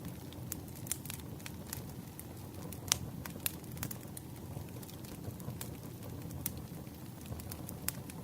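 Wood campfire burning: a steady low rumble of flames with scattered sharp crackles and pops, the loudest pop about three seconds in.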